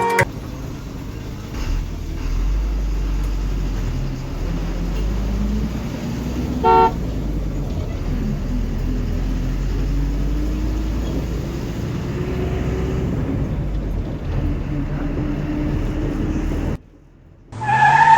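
Motor vehicle engine running with a low rumble, its pitch creeping up slowly now and then. A short horn toot sounds about seven seconds in, and a louder horn honk lasting about a second comes near the end after the engine cuts off.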